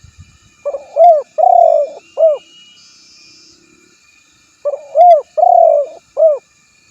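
Male spotted dove (tekukur) giving its territorial coo twice, about four seconds apart. Each phrase is a quick lead-in note, a coo, a longer drawn-out coo, and a short closing coo.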